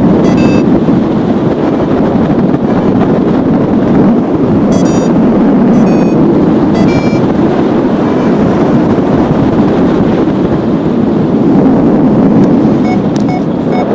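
Strong wind rushing over the microphone of a paraglider in flight, a loud, steady buffeting roar. A few short, high-pitched beeps cut through it, typical of a paragliding variometer signalling climb.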